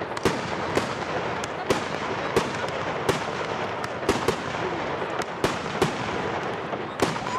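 Fireworks going off: sharp bangs about twice a second, irregularly spaced, over a continuous dense noise of further bursts.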